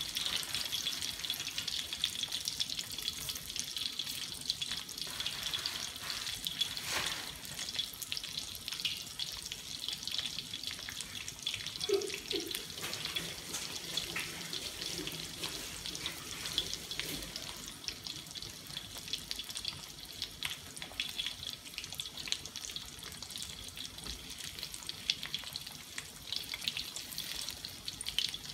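Chicken pieces deep-frying in hot oil in a steel wok: a steady sizzling hiss with many small crackles and pops.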